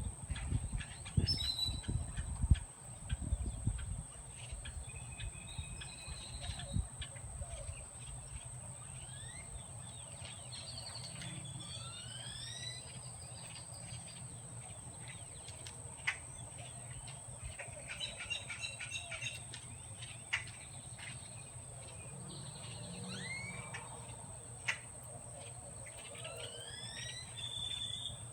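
Birds chirping, with short rising calls scattered throughout over a steady outdoor background. Low thumps in the first few seconds.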